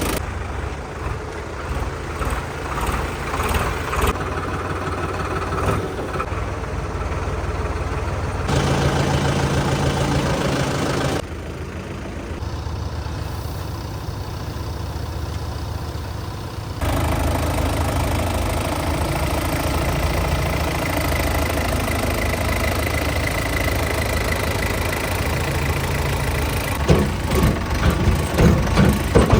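Tractor diesel engine running with a steady low drone, heard across several cut-together shots. Near the end it turns into a faster, pulsing clatter.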